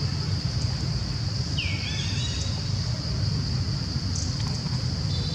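Outdoor ambience: a steady low rumble under a steady high-pitched buzz, with one short chirp about two seconds in.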